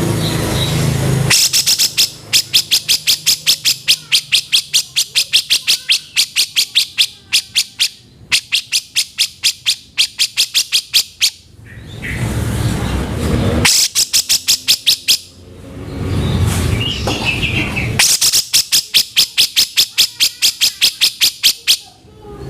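Cucak jenggot (brown-cheeked bulbul) giving a harsh, rapid rattle of rasping notes, several a second, in three long runs with short breaks between them.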